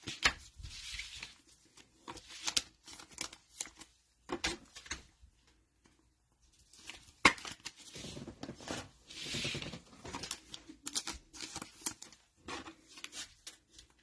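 Cellophane-wrapped trading card packs being torn open and handled: crinkling and tearing of the wrappers, with sharp clicks of cards being handled. There is a short lull just before the middle.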